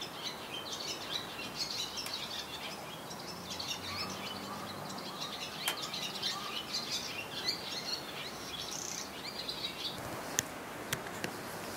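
Small birds chirping and twittering outdoors, many short high calls overlapping. The chirping stops about ten seconds in, and a few sharp clicks follow.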